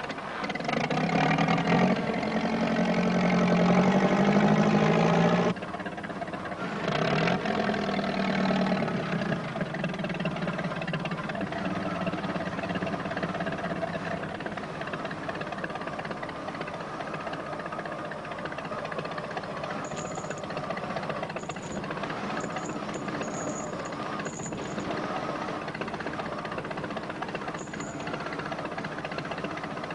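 Log lifter's engine working hard for about five seconds, cutting off suddenly, then starting again and running steadily at a lower level. A few short high squeaks come near the end.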